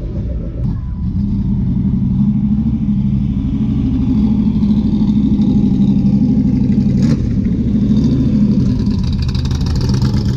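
Car engine running at idle, a deep steady rumble with a fast pulsing beat that grows a little louder over the first few seconds.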